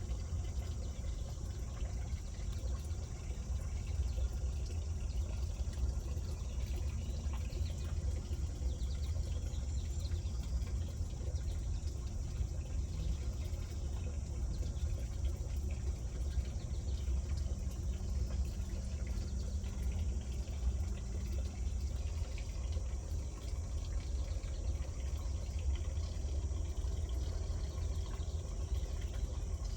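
Wind rumbling on the microphone: a steady, low rumble.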